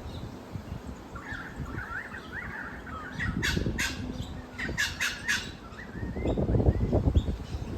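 Wild birds chirping: short sliding chirps, then a quick run of sharp, high calls in the middle. A low rumbling noise lies underneath, growing stronger near the end.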